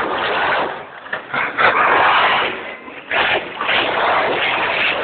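Monster truck engines revving in loud, uneven surges, dropping off briefly about a second in and again near three seconds.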